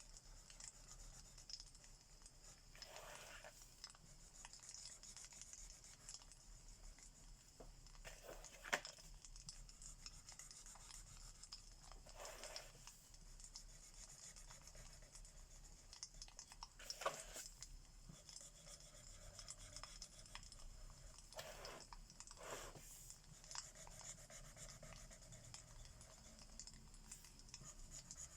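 Faint scratching of alcohol markers rubbed across paper, in short strokes every few seconds with two sharper ticks, over a low steady crackling hiss of fireplace sounds.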